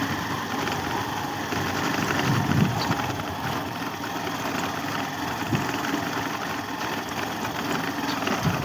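Motorcycle engine running steadily while riding along a track.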